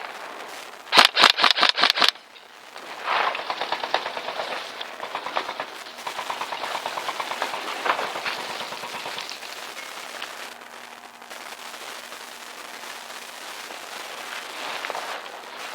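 Airsoft electric gun firing a full-auto burst of about ten rapid shots about a second in, followed by fainter rattling bursts of airsoft fire through much of the rest.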